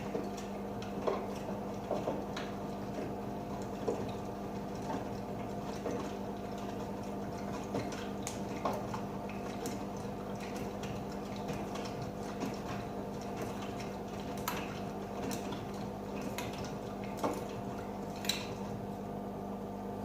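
AEG Öko-Lavamat 88840 washing machine running a 50°C colours/easy-care wash: a steady motor hum with water sloshing in the drum and irregular small clinks and knocks as the laundry tumbles.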